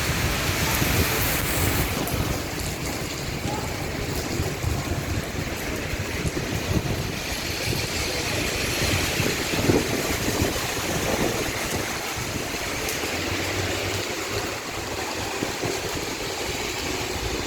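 Steady rain falling, an even hiss of noise.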